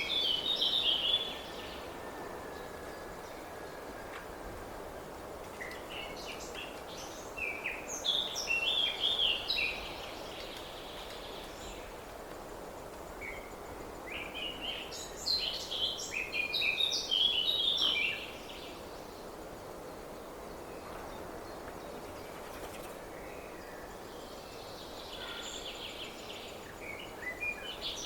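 A small songbird singing short, rapid, chirping phrases of two to four seconds, repeated about every eight seconds, over steady outdoor background noise.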